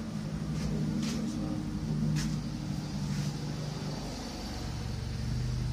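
A vehicle engine running with a steady low hum. Its pitch drops a little about four seconds in, and a few short knocks sound in the first half.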